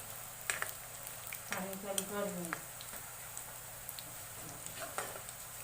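Boondi, drops of gram-flour batter, frying in hot oil with a steady sizzle, while a utensil stirs it and clicks against the pan several times. The boondi is left to fry until it turns lightly red.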